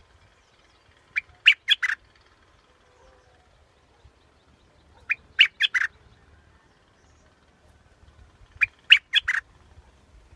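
Yellow bulbul (Thai 'nok prot dok taeng') singing three short phrases of four or five quick notes each, about three and a half seconds apart, as in a decoy-call recording.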